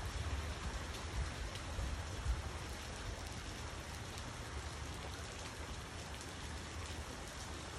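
Steady rain falling on a yard, street and plants, an even hiss of drops, with a low rumble underneath.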